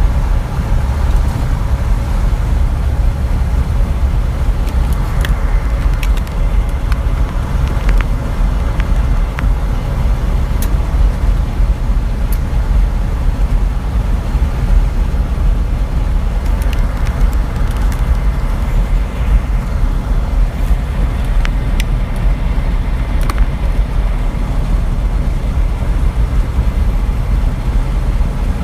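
Truck driving along: a steady low rumble of engine and road, with a few light clicks and rattles scattered through it.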